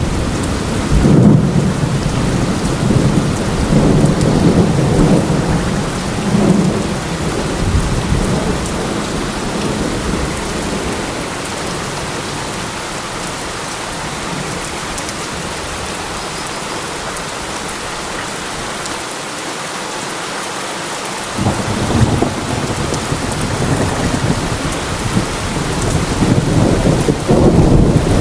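Steady heavy rain with thunder rumbling during the first several seconds, dying away. A second roll of thunder starts about two-thirds of the way through and builds toward the end.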